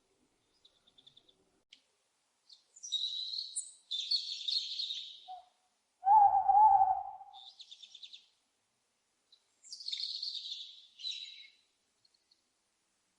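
Small songbirds twittering in two short bouts of high chirps. Between them, about six seconds in, an owl gives a single wavering hoot lasting about a second, the loudest sound here.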